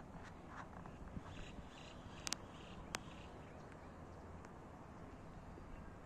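Faint ambience of a few bird chirps over a steady low background noise, with two sharp clicks about half a second apart near the middle.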